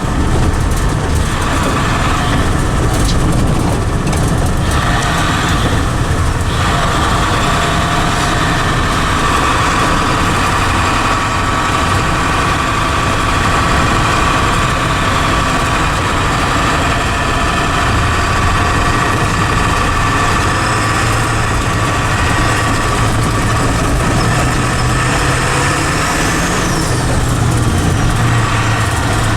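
7.3-litre Power Stroke turbo-diesel V8 in a 1976 Ford F600 running steadily, its pitch rising slightly near the end.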